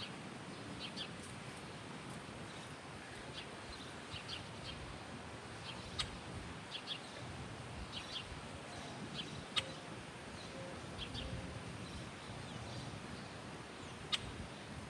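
Small birds chirping and twittering in short, scattered high notes over a steady outdoor background hiss. Three sharp ticks stand out, about six seconds in, near ten seconds and near the end.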